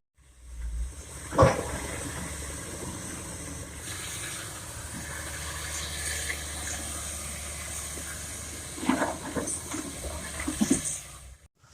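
Excavator loading soil into a dump truck: a diesel engine running steadily under a rush of falling earth, with a sharp thump about a second and a half in and a cluster of knocks near the end.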